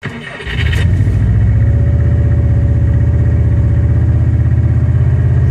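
Subaru Impreza WRX STI's turbocharged flat-four engine running steadily, with a low, fast-pulsing exhaust note that comes up in the first second.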